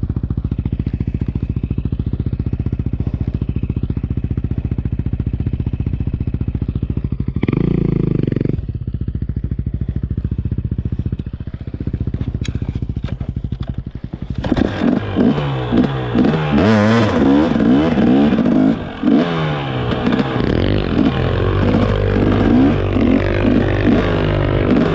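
Dirt bike engine running at low, steady revs with an even pulse. About 14 seconds in it gets louder and is revved hard, its pitch rising and falling repeatedly as the throttle is worked.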